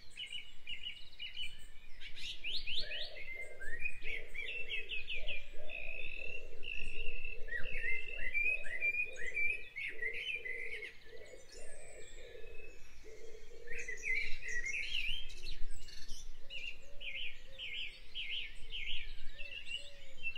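Small birds chirping, in quick runs of short repeated notes that go on throughout.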